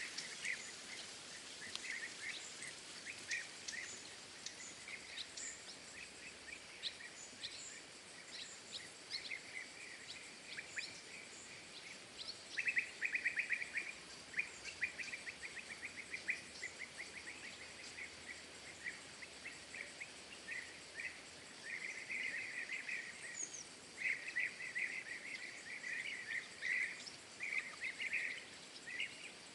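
Small songbirds chirping and calling, with bouts of fast chattering notes about a dozen seconds in and again through the second half.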